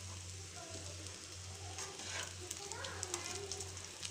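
Breadcrumb-coated bread rolls shallow-frying in a steel pan of hot oil, sizzling, with a spoon clicking and scraping against the pan as they are turned.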